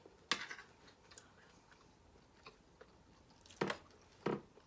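A person chewing food close to the microphone, with wet mouth clicks and three louder bites or chews: one about a third of a second in, and two near the end.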